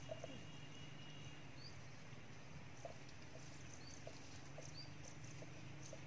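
Faint outdoor ambience in which a bird gives three short, high, rising chirps spread a second or more apart, over a low steady background hum.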